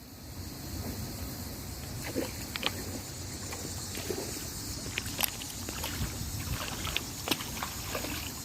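Water sloshing, with a steady low wind rumble on the microphone and scattered small clicks and splashes.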